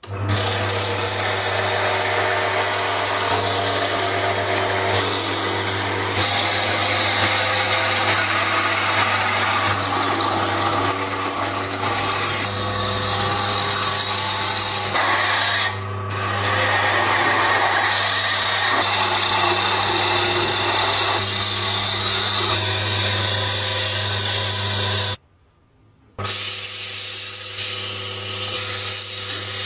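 Electric power tool running steadily: a constant motor hum under a harsh abrasive noise, as of metal being worked. It stops for about a second near the end, then runs on.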